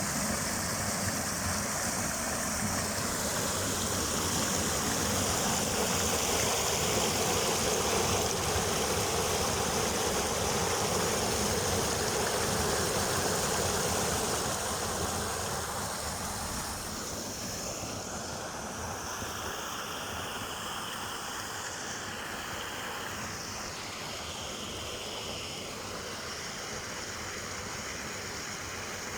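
Steady rush of a hot-spring river's water flowing over rocks, easing off about halfway through.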